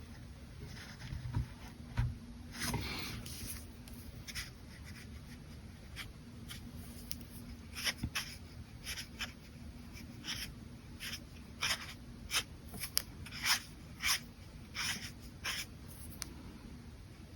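Brush pen strokes scratching on paper: a longer stroke about two and a half seconds in, then quick short flicks that come thicker in the second half. There are two soft low knocks about one and two seconds in, and a faint steady hum underneath.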